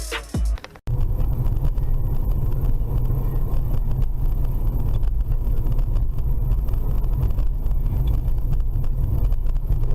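Car driving, a steady low road and engine rumble with no impacts, starting about a second in after electronic music cuts off.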